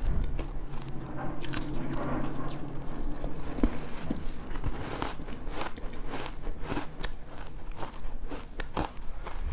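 Ice being bitten and crunched between the teeth, a rapid irregular run of sharp crunches, several a second.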